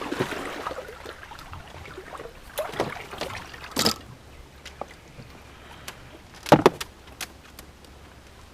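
A few scattered knocks and clunks in a small john boat as gear is moved around in the hull, the loudest about six and a half seconds in, over a faint steady background.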